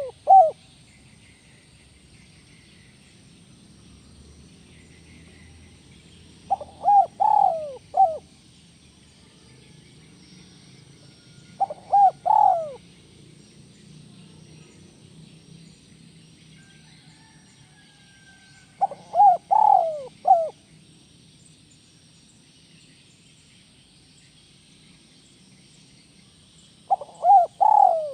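Spotted dove (tekukur) of the 'kuk 1' song type cooing: short phrases of three or four falling coos, repeated about every six to eight seconds.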